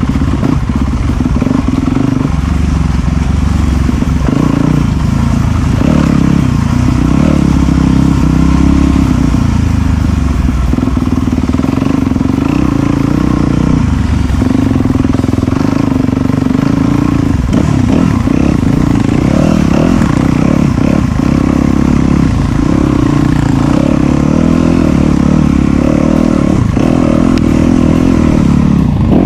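Off-road dirt bike engine running steadily under load on a muddy trail, with small throttle changes rising and falling in pitch.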